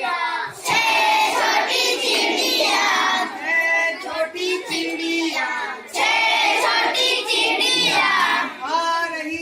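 Children singing a Hindi nursery rhyme together in high voices, in phrases with short breaks between them.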